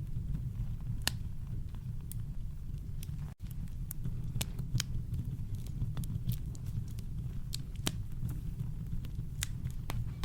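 Campfire crackling: sharp, irregular pops and snaps over a steady deep brown-noise rumble, with a momentary dropout to silence about a third of the way in.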